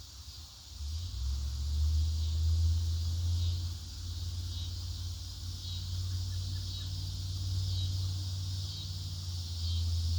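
Crickets chirping steadily in the background, with a low steady rumble coming in about a second in and staying louder than the chirping.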